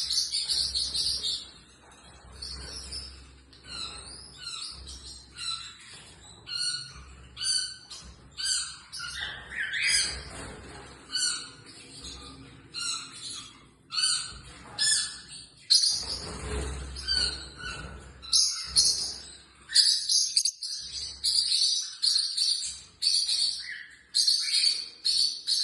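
Pacific parrotlet chirping: a long run of short, high chirps, one or two a second, with a dense high chirring at the start and again near the end.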